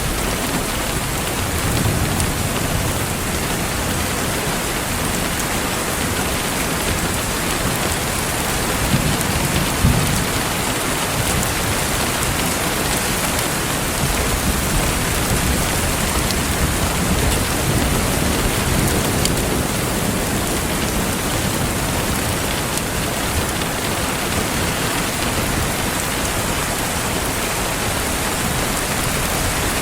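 Steady rain, a dense even hiss, with a few soft low rumbles rising and fading and a faint crackle of a wood fire.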